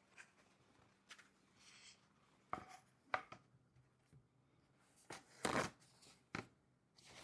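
Faint, scattered handling noises: a few light knocks and short rustles, with near quiet in between.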